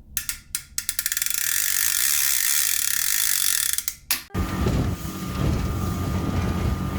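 Rapid ratcheting clicks, like a fishing reel's line-out clicker buzzing as line is pulled off the spool, for about four seconds. A loud low rumble then takes over for the rest of the time.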